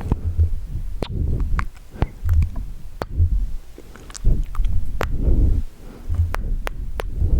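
Close-miked wet mouth sounds: sharp tongue and lip clicks scattered irregularly, about a dozen in all, between low muffled rumbles.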